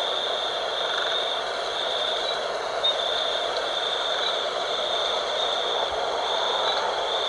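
Night wind blowing steadily, with a high-pitched trill that repeats about once a second.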